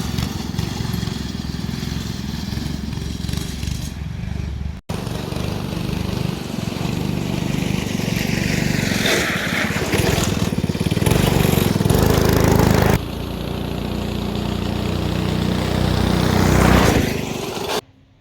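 A small engine running steadily, cut off abruptly about 5 seconds in and again about 13 seconds in as one stretch gives way to the next, then stopping near the end.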